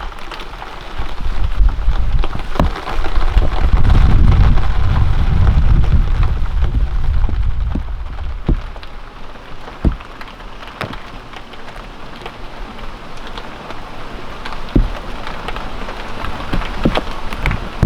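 Rain falling, with single drops ticking sharply close by. A loud low rumble runs from about a second and a half in until about seven seconds in.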